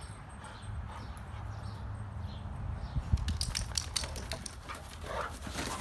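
Dogs play-fighting: a low rumbling growl for the first few seconds, then scuffling with a quick run of sharp clicks and a few short higher yelps or whines near the end.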